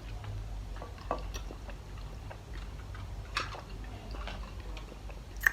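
Eating sounds while chewing: scattered soft mouth clicks and smacks over a steady low hum.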